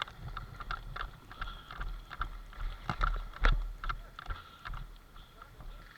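Footsteps of a player walking, about three steps a second, with clothing and gear rustling against the camera microphone. There is a heavier knock about three and a half seconds in.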